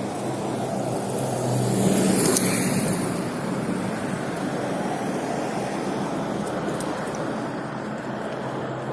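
Steady traffic and road noise heard while riding, with a vehicle passing close by about two seconds in, its engine and tyre hiss swelling and then fading.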